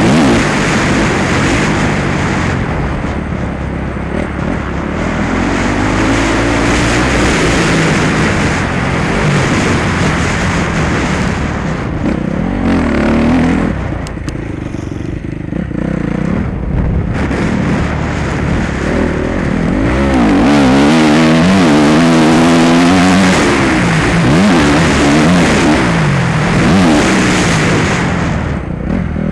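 Motocross bike engine revving up and dropping back over and over with the throttle as it rides the track, quieter for a few seconds about halfway through.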